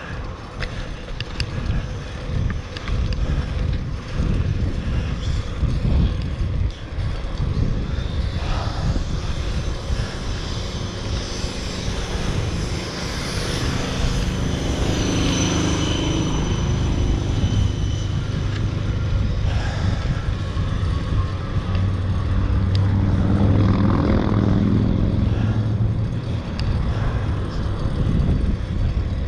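Wind and road rumble on a moving bicycle's action-camera microphone, with the engine hum of passing motor traffic that swells in the middle and is loudest about three-quarters through.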